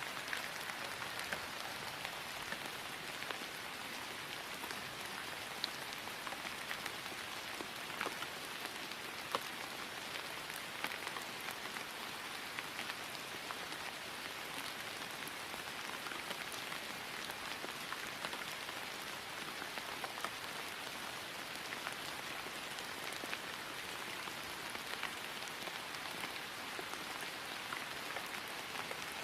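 Steady rain falling on grass: an even hiss with scattered individual drop taps.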